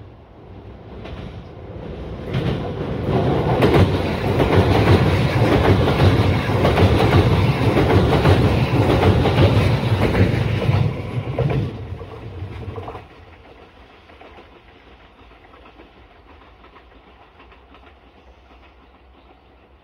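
A train passing close by on the rails. The sound builds for about three seconds, then the wheels clatter loudly for about eight seconds, and it dies away sharply about thirteen seconds in.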